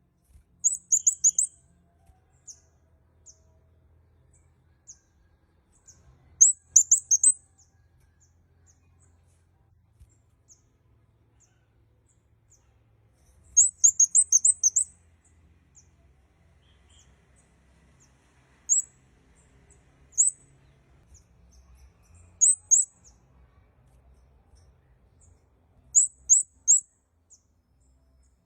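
Kemade kepala merah (red-headed flowerpecker) calling: very high, thin chirps in quick clusters of a few notes, repeated every few seconds with gaps between, the longest run about halfway through.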